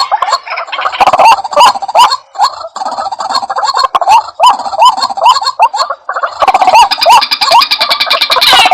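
White-breasted waterhen calling: a loud, quick series of short rising notes repeated over and over. This is the bird's 'kuwa-kuwa' call, used as a lure. The calling grows fuller and more continuous near the end.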